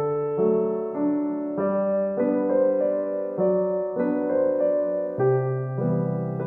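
Soft solo piano background music, notes and chords changing about every half second to second.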